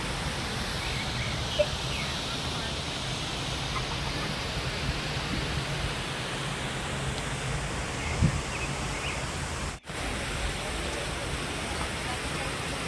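Steady outdoor background hiss with no clear events, cutting out briefly near the ten-second mark.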